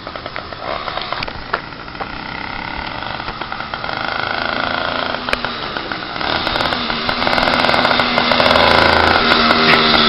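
An 80cc two-stroke motorized-bicycle engine running with no baffle in its exhaust, growing louder from about six seconds in.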